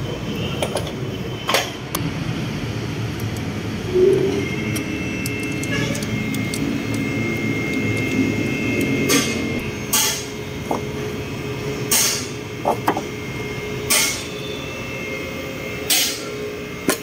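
Hand tools working on a car's engine mount bolts: sharp metal knocks and clinks, several of them about two seconds apart in the second half, over a steady low background hum.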